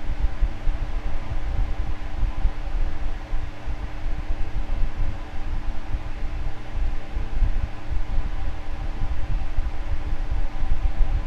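Electric fan running steadily: a motor hum with an uneven low rumble of moving air.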